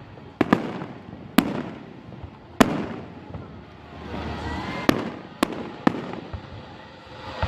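Aerial fireworks bursting. About seven sharp bangs come at uneven intervals, some in quick pairs, and each is followed by an echoing tail.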